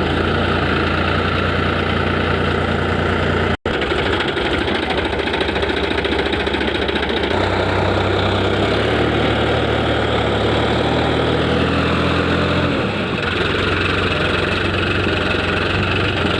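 Tractor engine running steadily, cut off for an instant about three and a half seconds in. Its pitch steps up about seven seconds in and drops back down near thirteen seconds.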